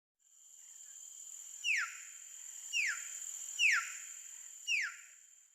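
Four short falling whistles from a bird, about a second apart, over a steady high-pitched whine.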